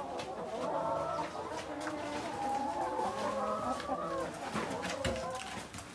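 A flock of backyard chickens clucking and calling over one another in a steady, overlapping chatter, with scattered clicks and knocks.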